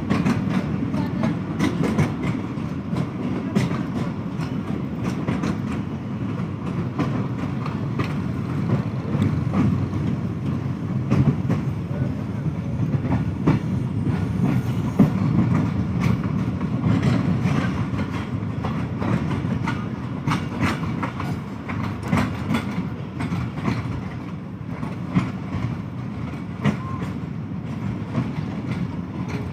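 Passenger train running on the track: a steady low rumble of the coaches with the wheels clacking over rail joints.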